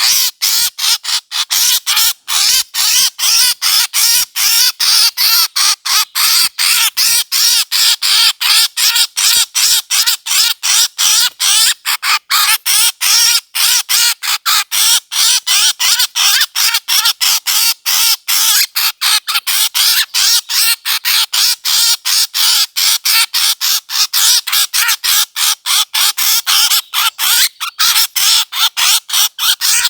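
A bird's harsh, squawking calls repeated rapidly and without pause, about three a second: a bird-call recording played as a lure for hunting birds.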